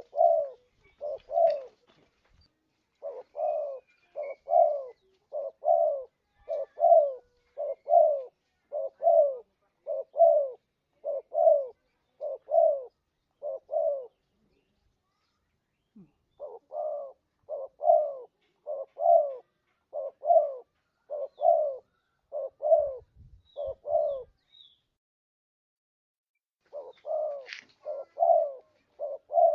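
Spotted dove (tekukur) cooing, played as a lure call: a quick, even series of short low coos, about one and a half a second, in long runs broken by pauses of two seconds or so near the start, about halfway and near the end.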